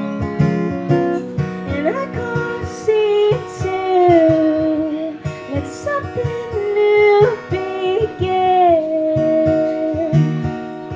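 Acoustic guitar strummed in a steady rhythm, with a woman's voice singing long, sliding held notes over it from about two seconds in until near the end.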